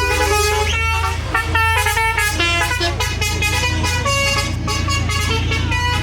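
Tractor engines running with a steady low drone, under a busy string of loud horn-like notes that change pitch every fraction of a second.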